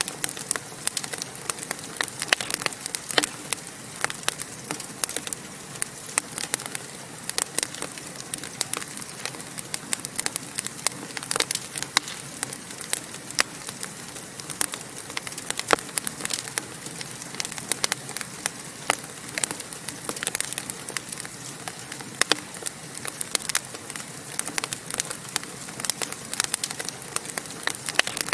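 Wood fire crackling in a fireplace: frequent sharp irregular pops and snaps over a steady hiss.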